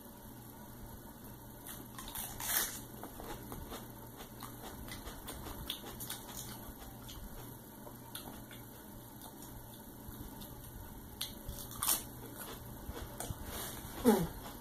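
Close-mic eating sounds: wet, crunchy chewing of lettuce leaves dipped in chili sauce. A few louder crunches stand out about two seconds in and again later, with a short falling sound near the end.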